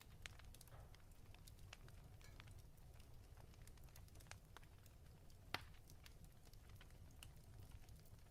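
Fireplace crackling faintly: scattered small pops, with one sharper pop about five and a half seconds in, over a low steady rumble.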